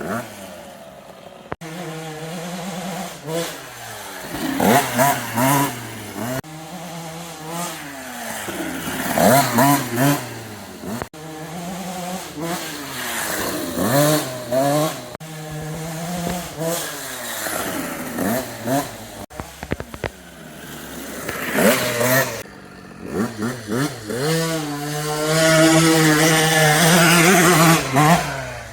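Dirt bike engine revving up and down over and over, its pitch climbing and falling as the throttle is worked through the gears, with a longer high-revving run near the end.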